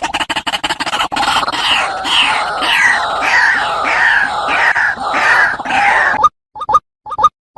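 White-breasted waterhen calls: a fast pulsing run, then a loud run of repeated falling 'ruak' notes, about two a second. About six seconds in it cuts off abruptly to short single notes with silence between them.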